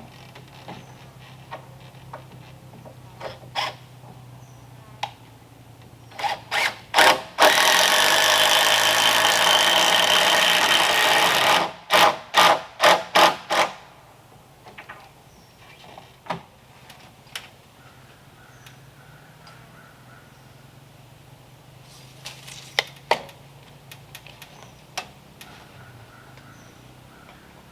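A handheld power tool worked by its trigger: a few short bursts, then a steady run of about four seconds, then a quick string of short bursts. Scattered knocks and clicks from handling tools and wood come before and after.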